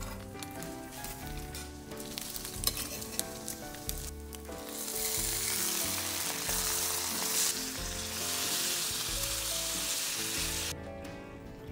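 Bacon strips frying in butter on a cast-iron griddle: a loud, even sizzle that starts about five seconds in and cuts off suddenly near the end. Before it, a softer sizzle of thick French toast slices browning in butter, with a couple of light clicks.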